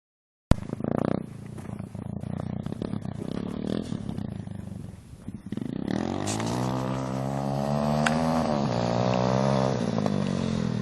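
250cc dirt bike engine running, with the engine note climbing slowly in pitch for a couple of seconds and then dropping about two-thirds of the way in. Before that, half a second in, a sudden start of sound is followed by a lower, rougher stretch.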